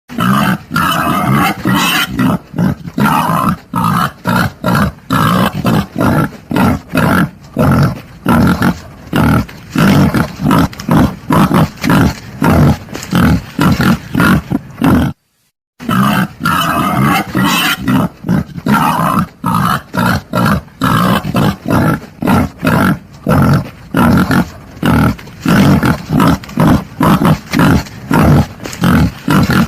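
Wild boar grunting loudly in quick, continuous succession, several grunts a second, with a half-second break about halfway through. It is a recorded boar call of the kind played as a hunting lure.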